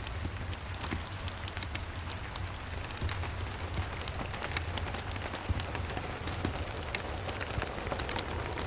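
Steady rain, with a fireplace's wood fire crackling in many small sharp clicks throughout, over a constant low rumble.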